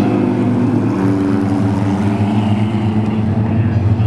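Race car engines running hard and steady at speed, with an even engine drone.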